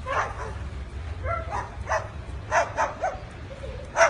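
A series of short, dog-like barks, about seven in four seconds, some coming in quick pairs.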